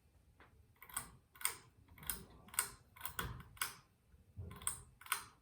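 Ceiling fan pull-chain switch being pulled repeatedly: a string of about eight sharp clicks, roughly two a second, as the switch steps through its speed settings.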